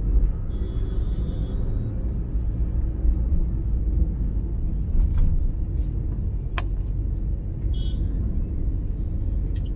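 Steady low rumble of a car driving, heard from inside the cab, with a few faint brief chirps and a click.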